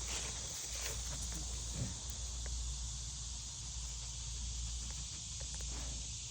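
Outdoor walking ambience: a steady hiss and low rumble, with a few faint scattered footstep-like taps.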